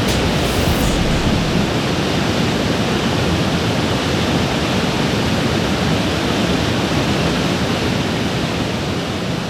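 Waterfall rushing: a steady, loud wash of falling water that begins to fade near the end.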